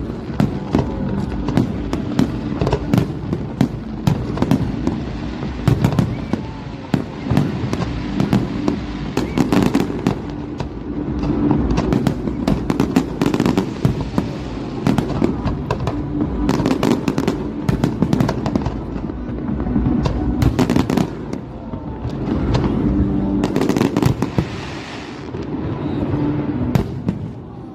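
Fireworks display: a dense, continuous barrage of shell bursts and crackling, with sharp bangs following one another rapidly over a steady low rumble.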